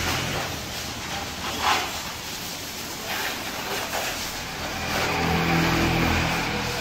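A motor vehicle's engine running, growing louder about five seconds in, with one brief sharp noise near two seconds.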